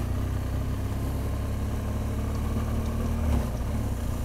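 BMW R1200 GS Adventure's boxer twin running steadily at low revs while riding around a roundabout, with road and wind noise; the engine note changes briefly a little over three seconds in.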